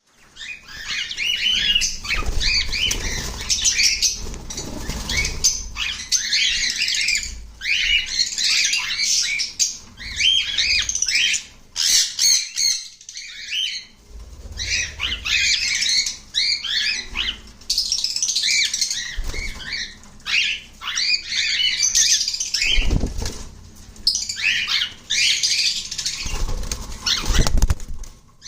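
Cockatiels in a cage chirping and chattering in busy bouts of short, rapid calls, with wings flapping and scuffling now and then.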